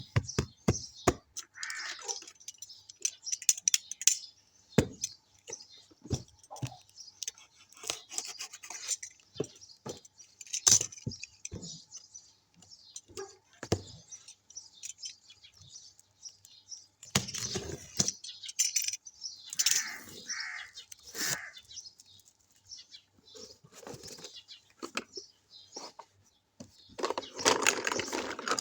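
Small plastic toy kitchen pieces and their packaging being handled: scattered light clicks, taps and rattles with bursts of rustling, busier near the end.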